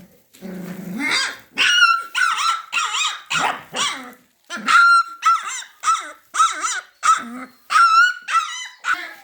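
A puppy yapping over and over in quick, high-pitched barks, about two or three a second with a short pause midway, after a brief low growl at the start.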